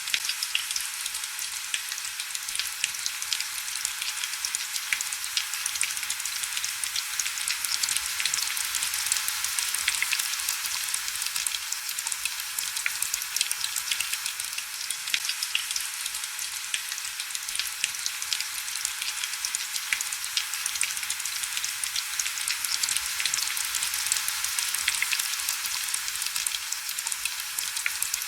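Steady heavy rain: a dense, even hiss of many small drop ticks, mostly high-pitched with almost no low rumble.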